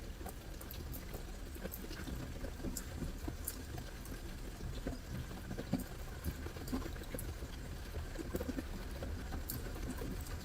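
Campfire crackling, with irregular small pops and snaps, over a steady low rush of flowing river water.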